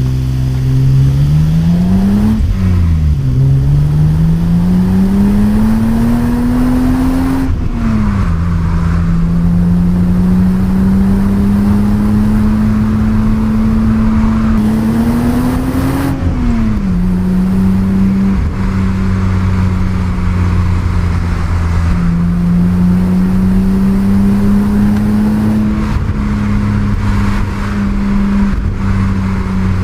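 1988 BMW 325i E30's stock inline-six engine accelerating through the gears. The revs climb and fall sharply at upshifts about two and a half, eight and sixteen seconds in, then hold a steady, slowly rising note.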